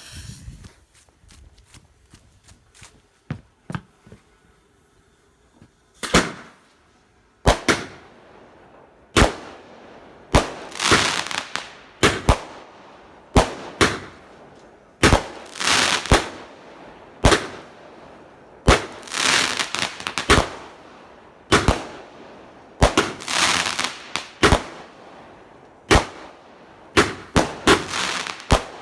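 A Cosmic Scorpion King 19-shot firework cake firing. For the first six seconds there are only faint small pops. Then the shots go off one after another, about one a second to the end, each a sharp report, many followed by a longer noisy burst.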